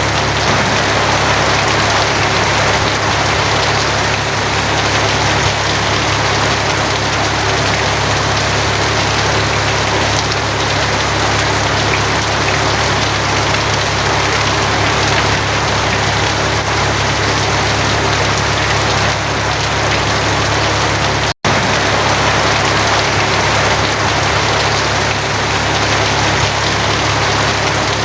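Steady heavy rain drumming on a tin roof, with a constant low hum underneath. The sound cuts out for an instant about 21 seconds in.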